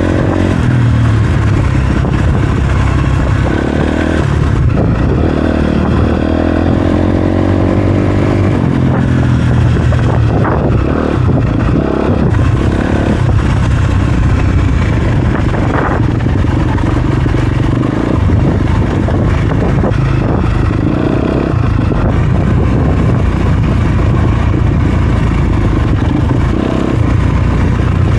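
Dirt bike engine, likely the Honda CRF250RX's single-cylinder four-stroke, revving up and down under changing throttle while riding. Occasional knocks and clatter come through, the loudest about ten to twelve seconds in and again at sixteen seconds.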